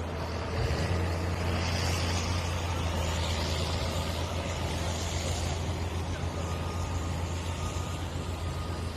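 A heavy engine idling with a steady low drone, with a hiss of higher noise over it that eases off after the first few seconds.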